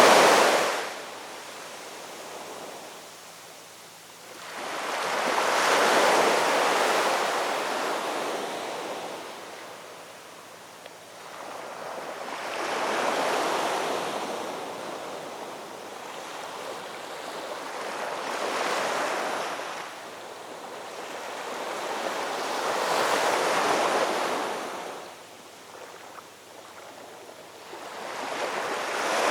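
Ocean waves washing onto a shore, each one swelling to a rushing hiss and then fading, about one every five to six seconds.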